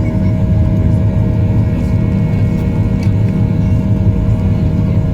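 Steady engine and airflow drone inside the cabin of a Boeing 737-800, a deep even rumble with a faint steady hum of higher tones over it.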